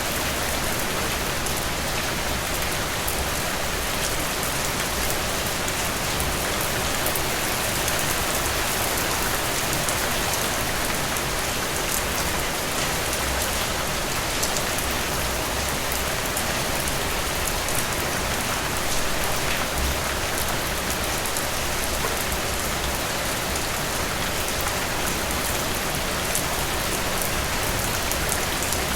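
Steady rain falling: an even hiss with individual drops ticking here and there.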